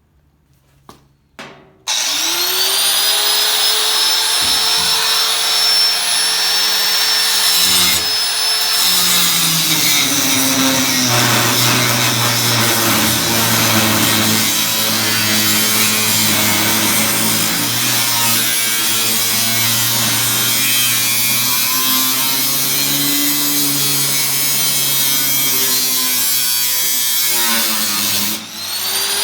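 Handheld electric power tool spinning up about two seconds in, after a few handling clicks, and running steadily with its motor pitch dipping under load now and then. It stops briefly near the end and starts again.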